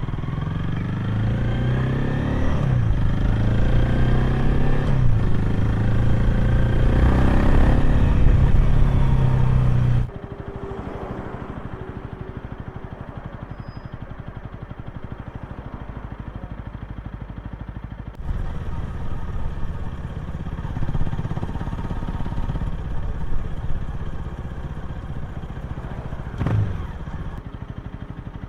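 Honda Rebel 250's single-cylinder engine and exhaust while riding, its pitch rising and falling with the throttle and gear changes. About ten seconds in the sound drops off abruptly to a quieter, steady engine note. It turns louder and rougher again about eighteen seconds in, with a brief knock near the end.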